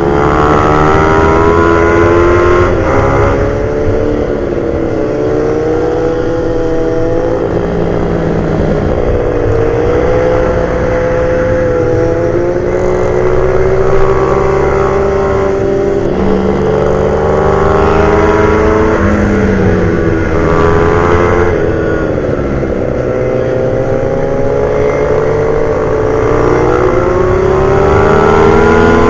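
Pit bike engine racing round a circuit. Its pitch climbs under throttle and drops off into the corners, over and over.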